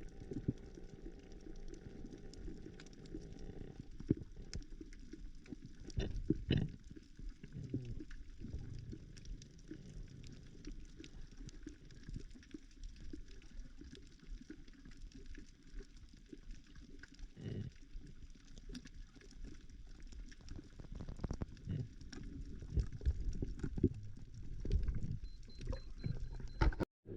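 Muffled water sounds heard underwater: low sloshing and bubbling with scattered dull thuds and knocks.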